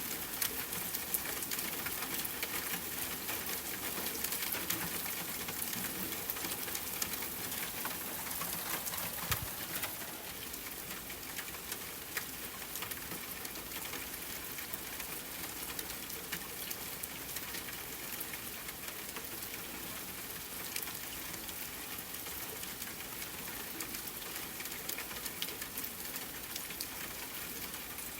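Rain pattering steadily on a tent with fine campfire crackle mixed in, easing slightly about ten seconds in.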